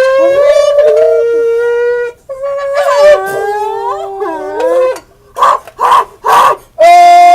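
Homemade tin-can call making long, howling, horn-like tones that step and slide in pitch, then three short hoots about two-thirds through and a loud held note near the end.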